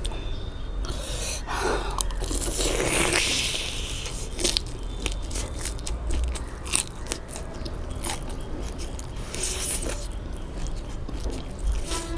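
A person chewing and biting food close to the microphone, with crunching and many short wet mouth clicks.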